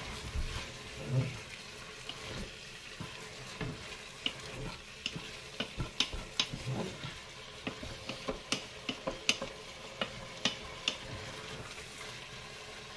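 Pork kidneys and mushrooms sizzling in the non-stick bowl of a Cookeo multicooker on its browning setting, stirred with a wooden spoon that scrapes and knocks against the pot in many short ticks.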